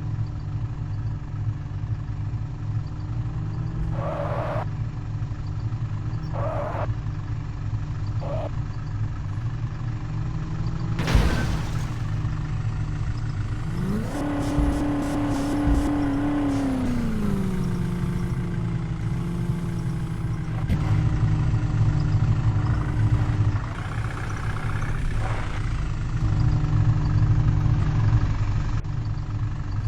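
Truck engine idling steadily, revved up for about three seconds midway and then settling back to idle, with a single clank shortly before the rev.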